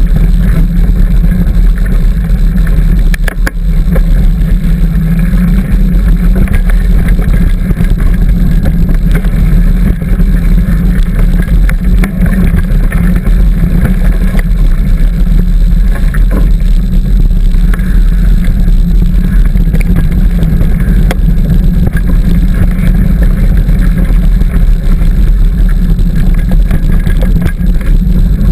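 Loud, steady low rumble from a mountain bike riding along a dirt trail: wind buffeting the bike-mounted camera's microphone and the tyres rolling over the ground, with occasional small clicks and rattles.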